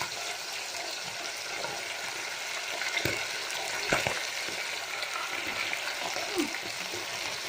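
Chicken pieces frying in hot oil in an electric deep fryer: a steady sizzle, with two short knocks about three and four seconds in.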